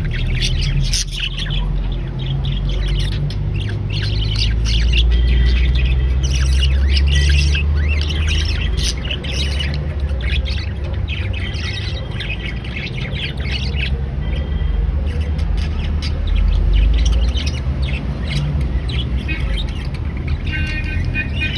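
Baby budgerigars chirping and squawking in many short, rapid calls, over a steady low rumble.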